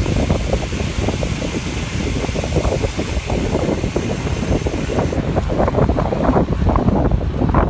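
Heavy wind buffeting on the microphone from riding a bicycle at speed: a continuous rumbling, gusting roar.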